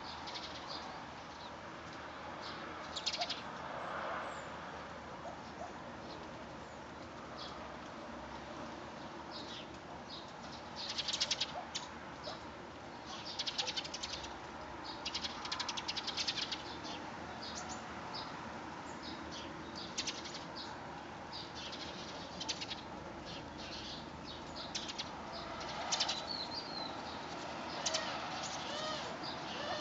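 Small birds chirping in short high bursts every second or two, with a few warbled notes near the end, over a steady hiss of wind and rain.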